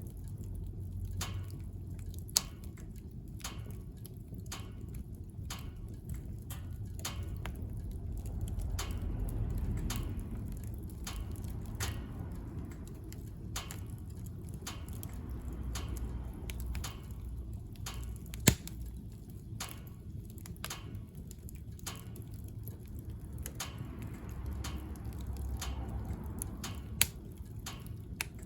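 Wood fire crackling in a wood-burning stove: irregular small snaps over a low, steady rumble of the burning. Three sharper pops stand out: one about two seconds in, one about two-thirds of the way through, and one near the end.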